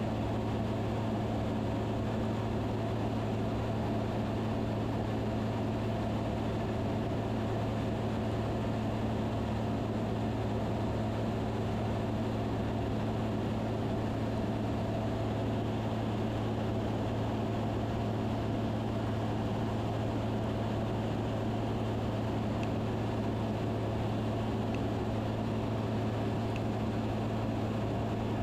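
Steady drone of a Van's RV-10 homebuilt light aircraft's piston engine and propeller, heard from inside the cabin in level flight, holding an even pitch throughout.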